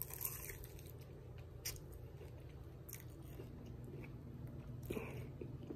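A man chewing a mouthful of dry, overcooked fried chicken, quiet chewing with a few faint crunchy clicks spaced out over the seconds.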